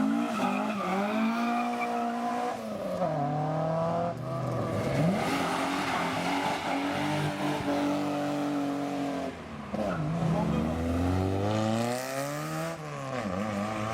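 Car engine revving hard as it pulls away, its pitch climbing and dropping several times through the gears.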